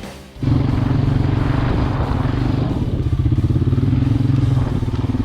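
Off-road vehicle engine running loud at a steady, even speed. It cuts in abruptly just after a brief tail of music at the start.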